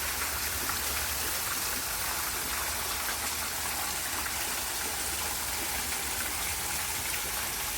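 Water splashing steadily down a small man-made waterfall in a garden water feature, a constant even rush.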